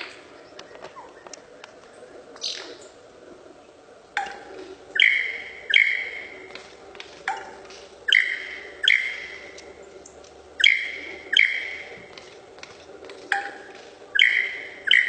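A bird giving short, sharp, ringing calls in pairs about three-quarters of a second apart, the pairs coming back roughly every three seconds.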